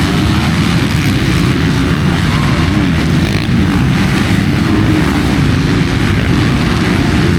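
Motocross bike engines revving, the pitch rising and falling continuously as the throttle is worked.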